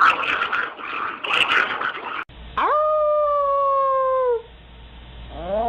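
A dog howling: one long howl that rises quickly and then holds, sinking slightly, for nearly two seconds, and a second wavering howl that starts near the end. Before the howling there is a short stretch of noisy clatter.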